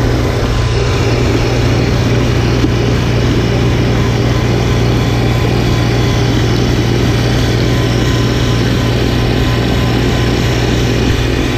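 Snowblower engine running steadily, with an even low hum and a steady hiss over it.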